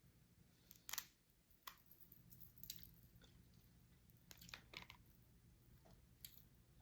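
Close-up eating of snow crab legs: faint chewing with scattered sharp cracks and clicks of the shells, the loudest about a second in.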